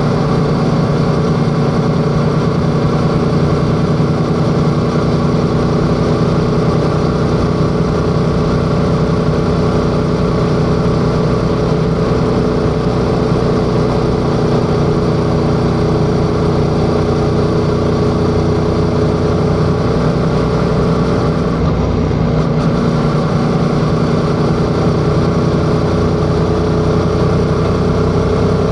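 Yamaha XSR700's 689 cc parallel-twin engine running steadily under way, its pitch holding level as the motorcycle cruises at a constant speed.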